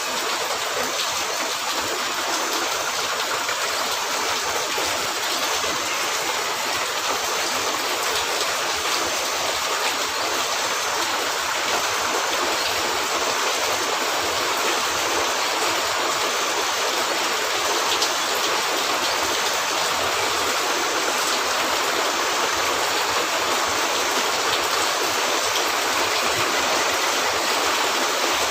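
Steady heavy rain on a roof, an even hiss with a few faint ticks scattered through it.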